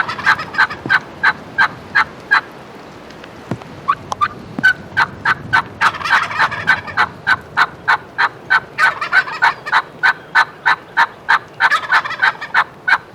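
Wild turkeys calling: a long run of sharp, evenly spaced notes about three a second, broken by a short pause about two and a half seconds in. Rattling gobbles rise over the run around six, nine and twelve seconds in.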